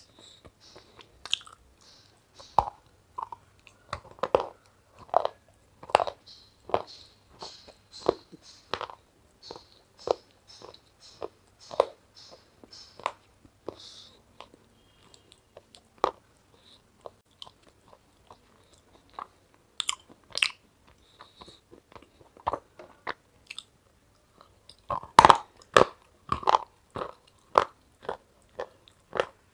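Close-up crunching of a person biting and chewing crunchy white pieces, sharp crunches coming about one or two a second, with a louder, quicker run of crunches near the end.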